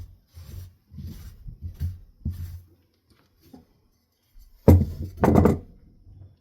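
Fan parts being handled on a work surface: soft rubbing and handling noises, then a loud thunk about two-thirds in followed by a quick cluster of knocks, as of a metal part being set down.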